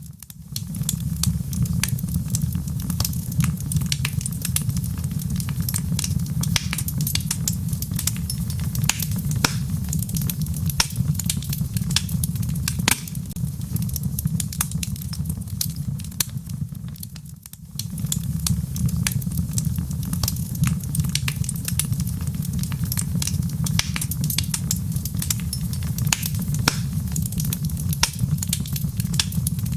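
Wood fire burning in a fireplace: logs crackling with frequent sharp pops over a steady low rumble. The sound dips briefly about halfway through, then carries on as before.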